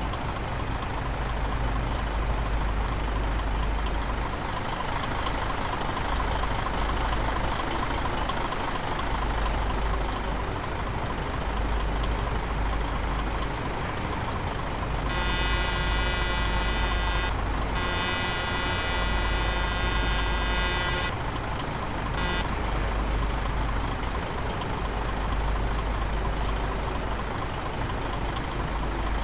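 Tanker truck's engine and road noise heard inside the cab, a steady low rumble. About halfway through, a horn sounds in two long blasts, then gives a short toot a second later.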